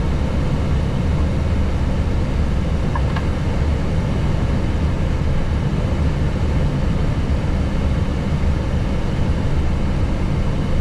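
Steady cockpit noise of an Airbus A321neo taxiing: a constant low rumble and hum.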